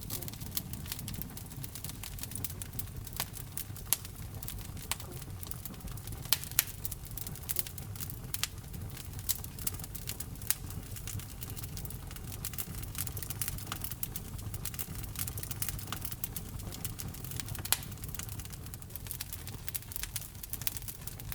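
Wood fire burning in a fireplace: steady crackling over a low rumble of the flames, with a few louder pops.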